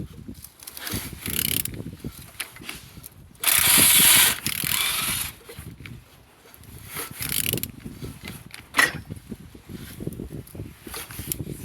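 Vauxhall A20DTH 2.0 CDTi diesel engine being turned over by hand: irregular mechanical clicks and scraping, with a loud rasping stretch about three and a half seconds in that lasts nearly two seconds. The engine turns well with compression on all cylinders.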